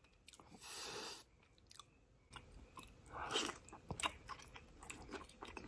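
Close-miked biting and chewing of a pan-fried gyoza pot sticker: soft wet mouth clicks and chews, loudest at the bite a little past halfway. A brief soft hiss comes about half a second in.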